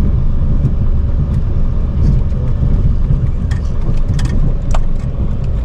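Chevrolet K3500 dually's Duramax diesel engine running while the truck plows snow, a steady low rumble. A few light clicks come through between about three and a half and five seconds in.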